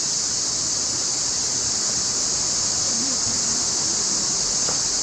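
Mountain creek water running, a steady rushing hiss with a strong high edge. A faint distant voice comes through about three seconds in.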